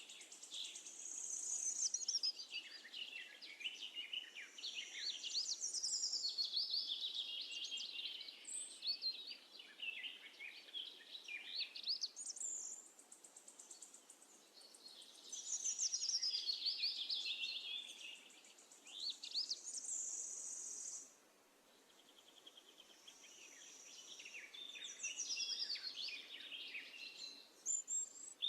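Sparrows chirping in busy, overlapping bouts of short high calls, with a brief lull about three quarters of the way through.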